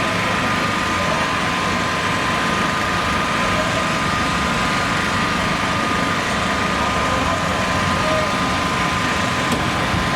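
An engine running steadily at idle, with a constant high whine over it and no change in speed.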